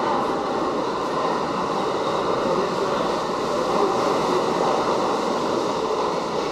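New York City subway car running between stations, heard from inside the car: a steady, loud rumble and rush of wheels on rails.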